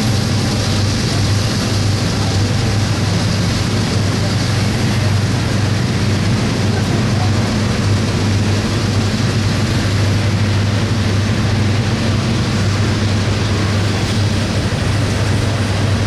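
Freight train running past with a steady low rumble and an even rushing noise that does not rise or fall.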